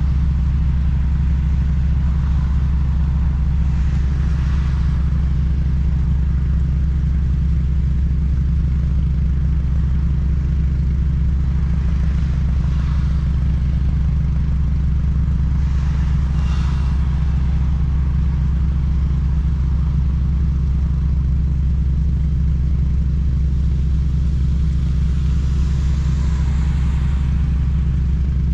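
2007 Honda Civic Si with its 2.0-litre i-VTEC four-cylinder on the move: a steady low engine and road drone that holds one pitch, without revving, and a few brief swells of hiss.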